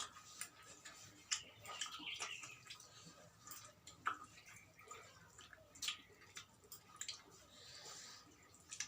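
Faint eating noises: scattered soft clicks and small smacks from chewing and handling food.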